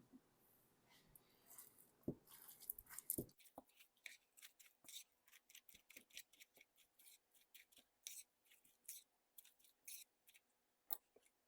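Faint spoon stirring a thick cream cheese, spinach and artichoke mixture in a bowl: irregular soft clicks and scrapes, a little louder in the first few seconds.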